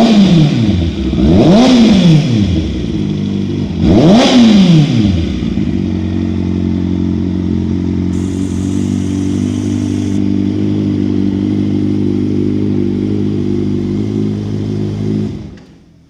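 Kawasaki ZX-6R 636 inline-four engine revved in three quick blips, each rising and falling in pitch, then settling to a steady idle. It is switched off about a second before the end.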